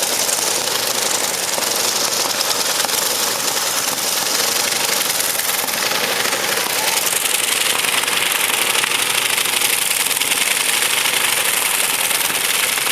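Competition pulling tractor's engine running flat out under load during a pull: a loud, steady, harsh engine noise that gets brighter in tone about halfway through.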